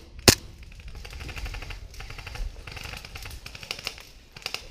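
A single sharp airsoft gun shot about a quarter second in, the last of a quick string of single shots. It is followed by a faint, fast rattle for a few seconds and two small clicks near the end.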